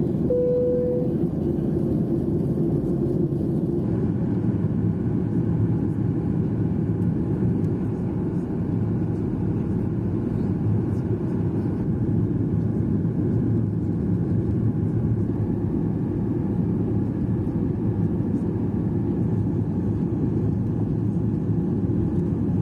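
Steady rumble of engines and airflow inside the cabin of a Boeing 737-800 airliner, with a short single tone about half a second in.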